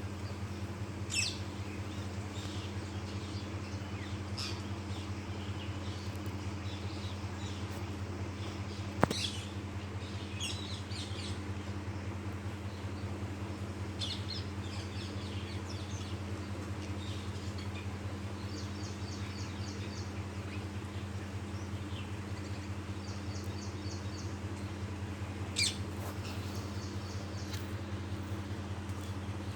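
Parrots calling: brief, high, sharp calls scattered through, the loudest three about a second in, at about nine seconds and near the end, with a couple of short runs of quick repeated chattering notes between. A steady low hum runs underneath.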